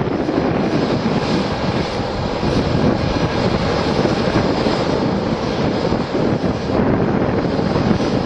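Boeing 737-800's CFM56-7B turbofan engines at takeoff thrust: a loud, steady rushing noise.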